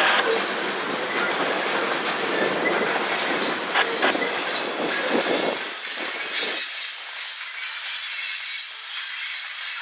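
Freight train of CSX covered hoppers rolling past, steel wheels on rail with a few sharp clacks. About seven seconds in the low rumble drops away, leaving a thinner hiss.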